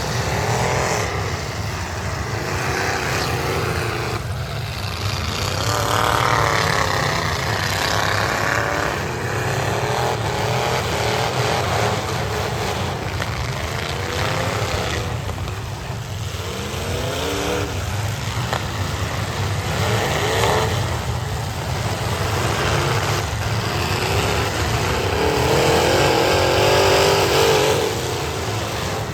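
Several demolition derby cars' engines revving hard and dropping back again and again, over a steady low rumble of engines.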